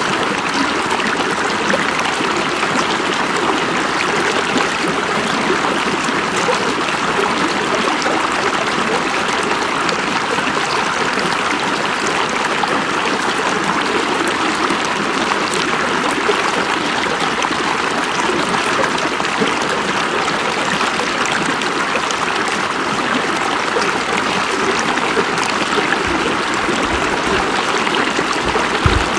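River water flowing in a steady, even rush, with a few brief low bumps near the end.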